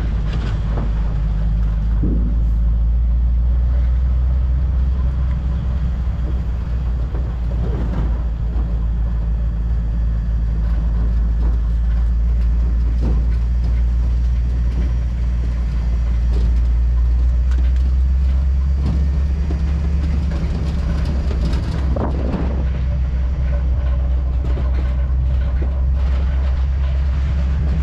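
Ford F-250 pickup truck driving, heard from its open bed: a deep, steady rumble with a few knocks along the way.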